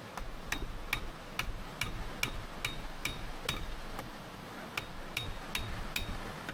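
A run of about fourteen sharp, evenly spaced knocks, roughly two and a half a second, with a short pause a little after the middle; several carry a brief high ring.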